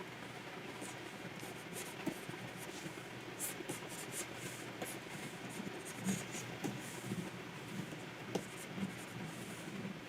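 Stylus nib scratching across the surface of a Wacom 24 Pro pen tablet in many short strokes, with a few light taps in the second half, over a faint steady hiss.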